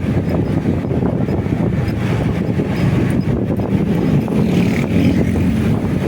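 Motorcycle riding on the road: steady engine and road rumble with wind buffeting the microphone.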